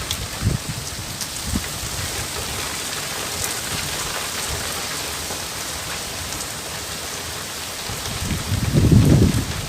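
Steady rain falling, an even hiss, with a few short low thuds in the first couple of seconds. A louder low rumble builds about eight seconds in and peaks near the end.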